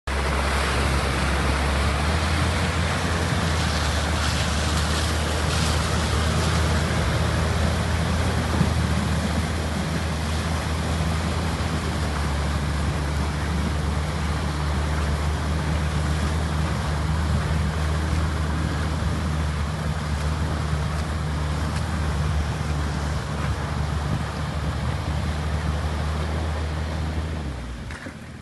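All-terrain vehicle's engine running at a steady pitch, with a constant rushing noise over it; the sound dies down near the end.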